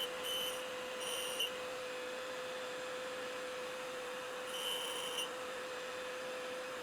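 Tool and cutter grinder running with a steady motor whine. The wheel touches the work in several short passes that each give a brief high-pitched grinding screech.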